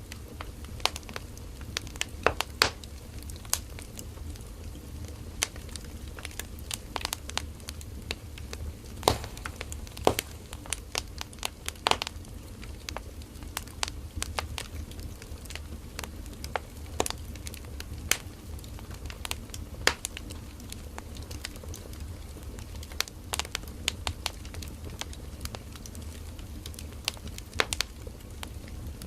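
Firewood burning in a campfire: irregular sharp crackles and pops of the burning wood, a few much louder than the rest, over a steady low rumble of the fire.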